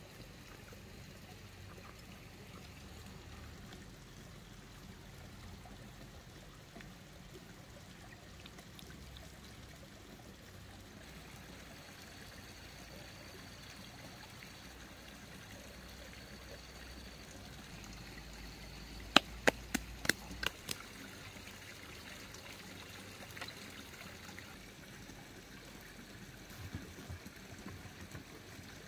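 Steady low rushing noise like trickling or running water, with a quick cluster of about six sharp clicks or taps about two-thirds of the way through.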